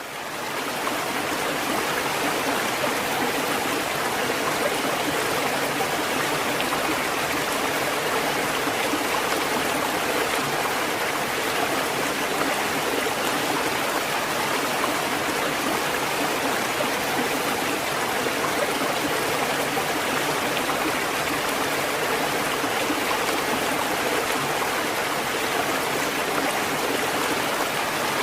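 Steady, even rushing of water with no rise and fall of separate waves, fading in over the first second.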